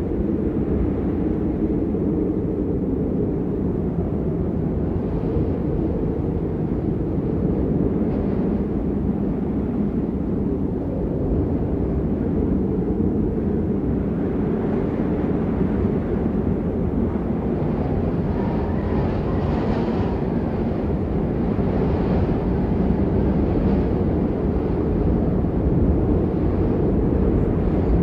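Steady low rumble of winter-storm wind, mostly wind noise on the microphone, with a fainter hiss above it.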